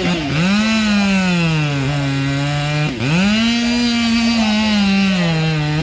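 Steam engine whistle blown in two long blasts, each lasting about three seconds. The pitch rises as each blast opens and sags a little before it cuts off.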